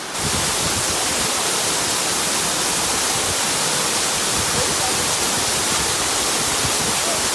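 Steady, even rush of falling water from the Jur-Jur waterfall.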